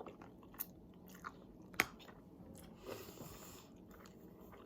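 A person quietly chewing food, with a few sharp wet mouth clicks, the loudest nearly two seconds in, and a soft brief rustle about three seconds in.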